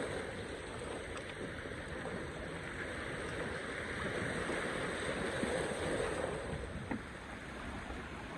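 Sea water washing and lapping steadily, with no distinct events.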